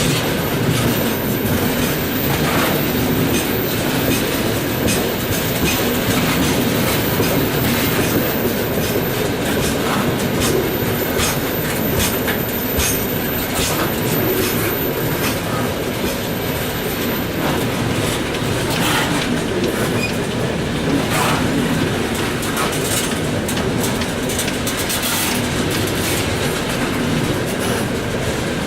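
Freight train rolling along the track: a steady rumble of wagons with the wheels clacking over rail joints again and again.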